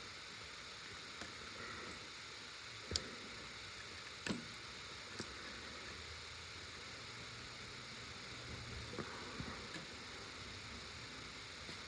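Faint handling sounds of wrapping electrical tape around a spliced wire connection: a few sharp clicks and light ticks over a steady low hiss.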